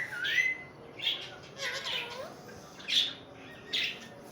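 Pet parrot giving a series of short squawks and chirps, opening with a rising whistled note, the loudest call about three seconds in.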